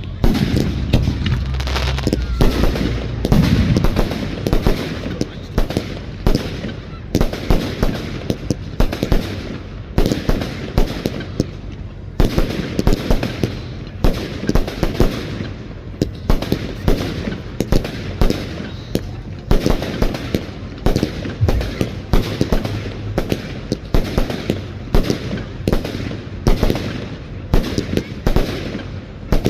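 Fireworks display: loud bangs of aerial shells going off in quick succession, about two a second without a break.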